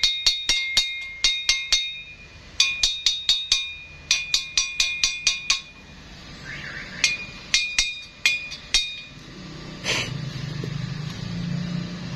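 A hammer striking steel in quick runs of about four blows a second, with short pauses between them; each blow rings with a clear metallic tone. About ten seconds in there is a short hiss, and a low steady hum follows.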